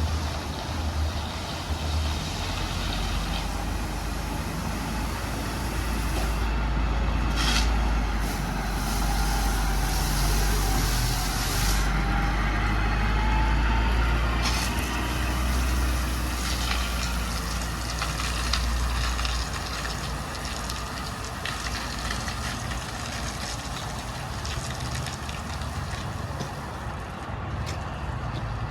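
Ford F750's 6.8-litre V10 gas engine running with a steady low drone, with hiss and a few short noisy bursts over it.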